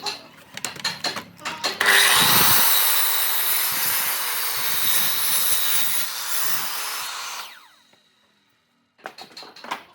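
A few light knocks and clicks of wood being handled, then an electric power tool works on wood for about five seconds, a steady loud noise that winds down and stops. A second of silence follows, then more knocks near the end.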